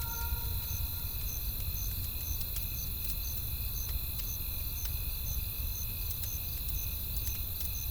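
Crickets chirping in an even rhythm, about two to three chirps a second, over a steady low rumble. A wood fire crackles now and then with small, sharp pops.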